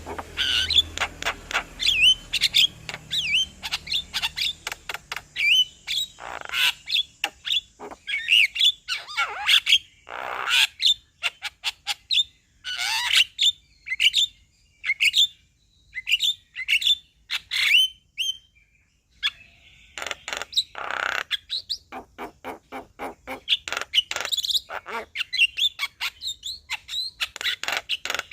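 Male Javan myna (jalak kebo) singing: a fast, chattering run of clicks and short whistled notes that slide in pitch, broken by several harsh rasping calls, with a brief pause about two-thirds of the way through.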